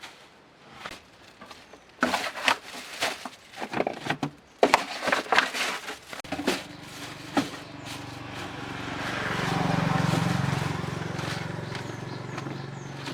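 A run of sharp knocks and clatter, then a steady motor hum that swells and eases off, like a motor vehicle passing close by.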